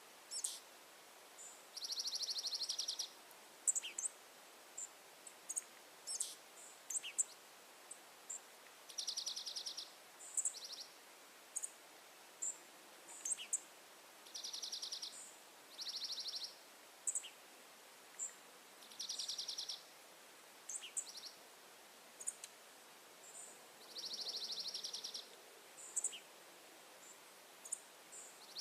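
Birds calling: a high buzzy trill about a second long, repeated every few seconds, with short sharp chip notes in between, over faint background hiss.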